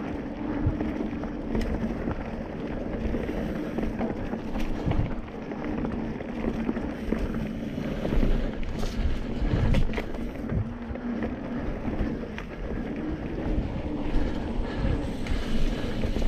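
Wind rushing over the microphone while a mountain bike rolls along a dirt trail, with a steady tyre hum and scattered knocks and rattles of the bike over bumps.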